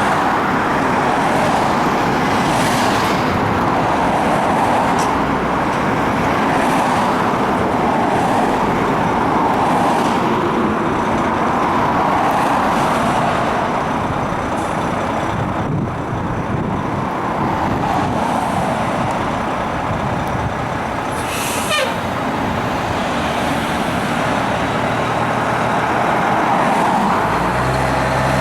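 Pierce Quantum fire engine with a Detroit Diesel engine on a response run, its siren rising and falling every few seconds over the engine and road noise. A short sharp air hiss comes about 21 seconds in.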